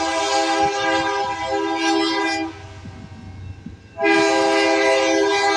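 Freight locomotive air horn sounding a long blast that ends about two and a half seconds in, then a second blast starting about four seconds in, over the low rumble of the moving train.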